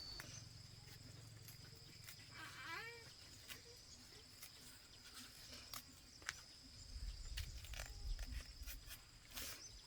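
A cat meowing once, faint, about two and a half seconds in, among scattered light clicks and knocks, over a steady thin high tone.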